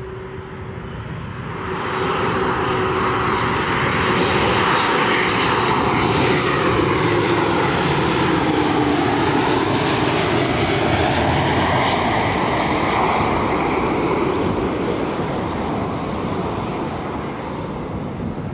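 Aircraft engines as a plane passes by. The noise swells about two seconds in, holds loud through the middle with a drop in pitch, then slowly fades.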